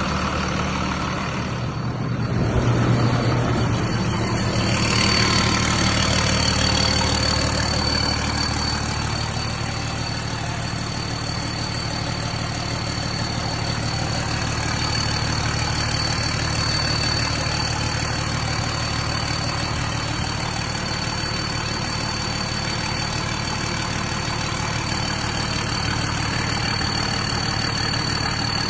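Freshly overhauled Volvo D9 inline-six diesel engine of a wheel loader running, with a thin steady high whine over it. About two seconds in it speeds up and grows louder with a rising hiss, then settles back to a steady idle.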